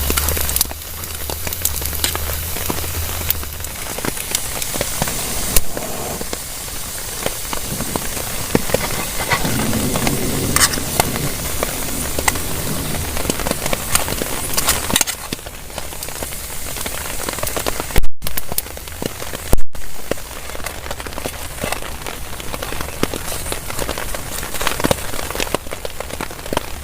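Heavy rain falling on a tarp shelter, a steady hiss dense with sharp drop impacts. A low hum fades out a few seconds in, and two loud sharp knocks come about 18 and 20 seconds in.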